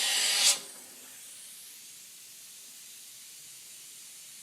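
Compressed air rushing out of a homemade air cannon as it fires a marker, loud and cutting off sharply about half a second in. A faint steady hiss follows.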